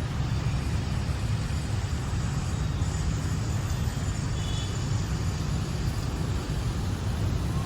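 Steady low outdoor rumble with no distinct events, in the manner of city traffic noise.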